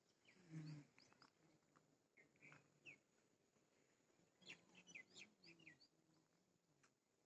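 Faint bird chirps over near silence: short, quick notes in a few scattered clusters.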